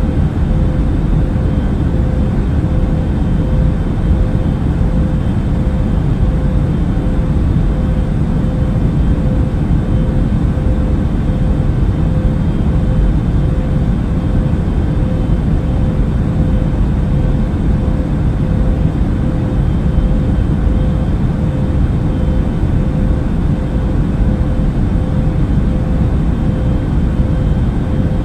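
Steady drone of a passenger airplane in flight, heard from inside the cabin: a deep, even rumble with a constant mid-pitched hum over it and no changes.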